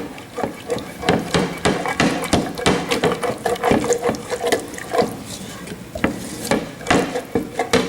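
Wire whisk clattering and scraping against the pan in quick, irregular strokes, whisking a milk-and-flour sauce as it thickens.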